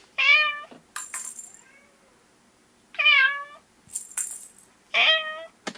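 Domestic cat meowing three times, each meow about half a second long, with a few short clicks between the meows.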